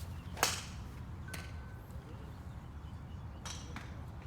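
A golf club striking a ball with one sharp crack about half a second in, followed by fainter clicks of more strikes later, over a steady low rumble.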